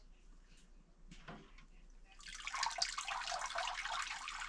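Water splashing and pouring into a basin. It starts about two seconds in after a few faint knocks and stays loud and steady.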